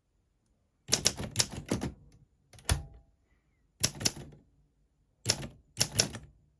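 Olympia SM4 manual portable typewriter being typed on: sharp key strikes in short, irregular bursts of one to five strokes, starting about a second in.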